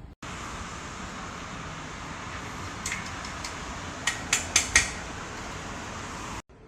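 A steady hiss with sharp clinks: a few about three seconds in, then a quick run of four or five between four and five seconds. The sound cuts in and out abruptly.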